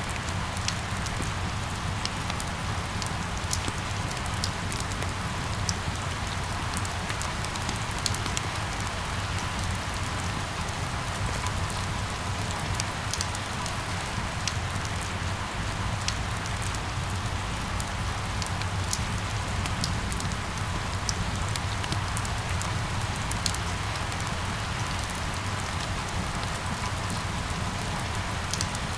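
Steady rain falling, with many small, sharp drop ticks over an even hiss and a low steady rumble beneath.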